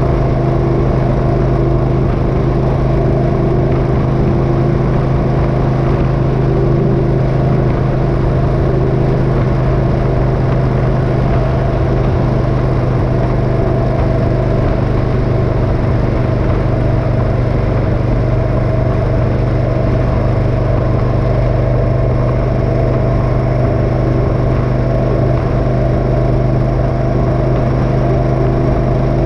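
Motorcycle engine running at a steady, unchanging engine speed, with a constant hum.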